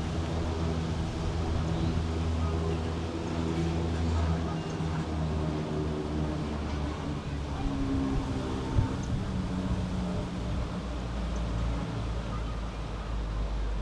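A motor vehicle's engine running with a low, steady hum. The pitch shifts about four seconds in and drops lower near the end.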